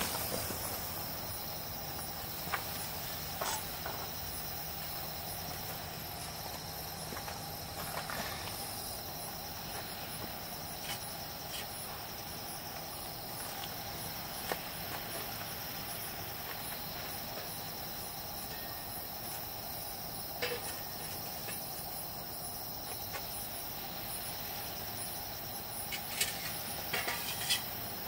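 Steady outdoor chorus of crickets or similar insects chirping continuously, with a few light clicks and knocks scattered through, clustering near the end.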